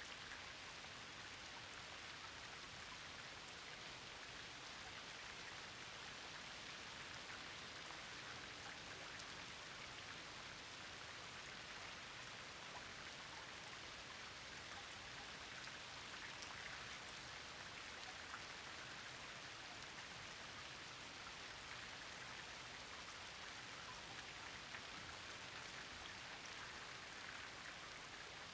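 Steady rain, a dense patter of drops falling on a pond's surface.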